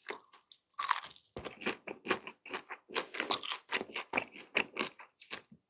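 Close-miked chewing of crunchy food: a quick run of short crunches, several a second.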